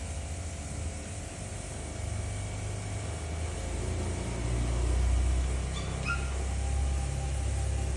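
A dog gives a short, high whine about six seconds in, over the steady low rumble of a moving car.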